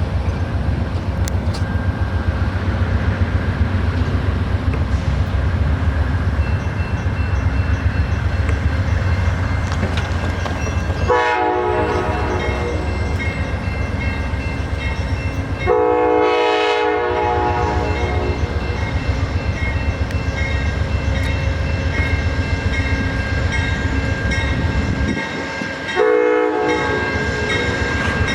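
Amtrak Coast Starlight passenger train running with a steady low rumble, its locomotive horn sounding three times: a short blast about eleven seconds in, a longer one about five seconds later, and another short blast near the end.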